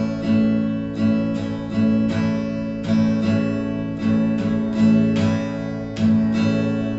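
Guitar strummed on one held chord in the campfire rhythm (down, skipped stroke, down, up, skipped stroke, up, down, up, down), looped without stopping.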